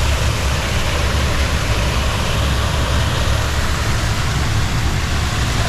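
Düden Waterfall's falling water rushing, a loud, steady, unbroken noise with a deep rumble, heard from inside the cave behind the falls, where it is very noisy.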